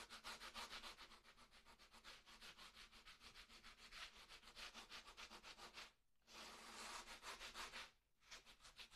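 Sanding mesh scrubbed by hand over dried tile mortar on a brick fireplace: faint, fast, regular rubbing strokes, about five a second, with two short pauses in the second half.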